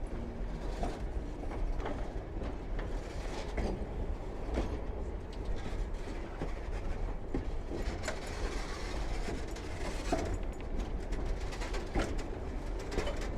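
Passenger train rolling past, its steel wheels clicking over rail joints over a steady low rumble.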